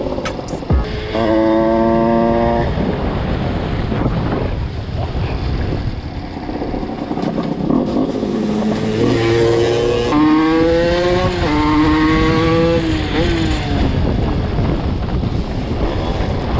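Small two-stroke 50cc supermotard engine running under way, its pitch holding steady at first, then rising and falling through the revs with throttle and gear changes from about nine seconds in.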